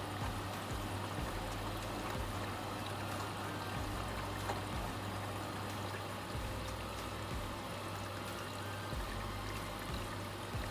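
Vestel washing machine partway through its cycle: water running and splashing inside, over a steady low hum from its motor or pump.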